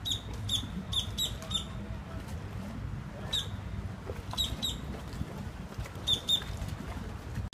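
A bird chirping: short, high chirps at one steady pitch, a quick run of about six near the start, then single chirps and pairs every second or two, over a low steady rumble.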